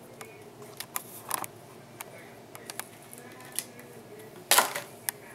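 Small clicks and handling noises as a stick of desktop RAM is picked up and handled, with one brief, louder rustle about four and a half seconds in.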